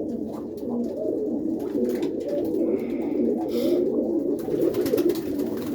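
Many roller pigeons cooing together in a loft, a continuous overlapping low warbling.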